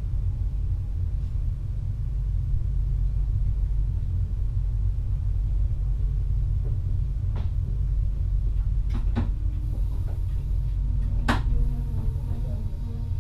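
Steady low rumble of a VIRM double-deck electric train, heard from inside the driver's cab. In the second half a few sharp clicks or knocks sound, the loudest a little after the 11-second mark.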